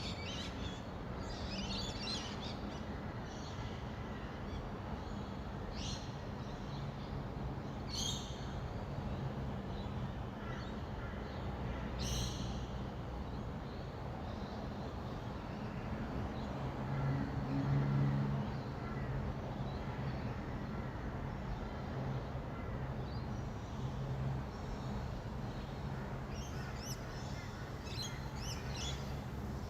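Rainbow lorikeets giving scattered short calls, a few at the start and a cluster near the end, over the steady low hum of distant city traffic, which swells briefly around the middle.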